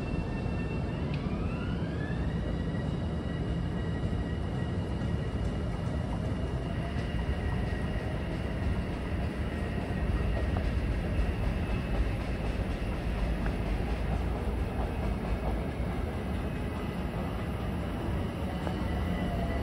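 Long Island Rail Road electric train running: a high motor whine rises in pitch about a second in, then holds steady over a continuous rumble of wheels on the rails.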